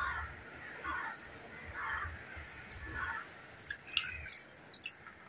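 Harsh bird calls, crow-like cawing, repeated about once a second, followed by a few sharp clicks near the end.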